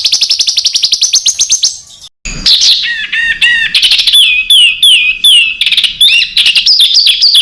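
Songbird song of the kind used as training material for competition birds. It opens with a fast, even rapid-fire trill of about a dozen high notes a second for two seconds. After a brief break come varied phrases with a run of repeated falling whistled notes.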